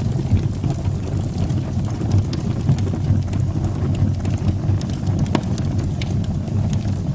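Wood fire burning in a fireplace: a steady low rumble of flames with scattered sharp crackles and pops, a louder pop about five seconds in.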